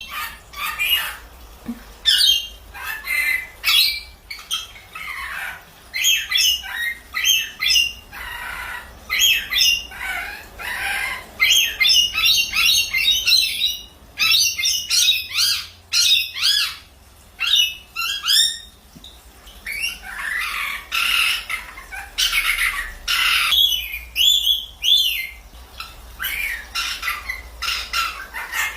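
Pet parrot chirping and squawking in quick runs of short calls and warbles, with brief pauses between runs.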